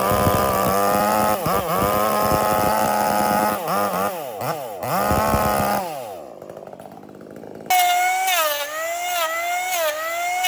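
A power tool's motor runs loud, its pitch dipping and recovering again and again as it is loaded and freed. It winds down with a falling pitch about six seconds in. Near eight seconds a second, higher-pitched motor starts abruptly, its pitch wavering up and down.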